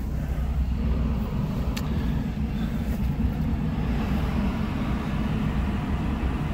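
Ram Power Wagon's V8 engine idling, heard from inside the cab as a steady low hum, with one faint click about two seconds in.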